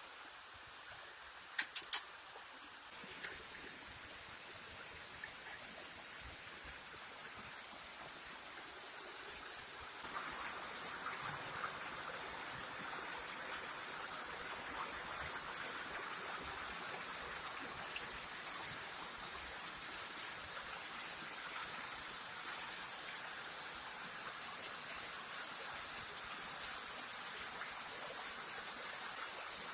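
Small waterfall rushing steadily, with scattered small ticks of water over it; it gets louder about ten seconds in. A few sharp clicks sound close together about two seconds in.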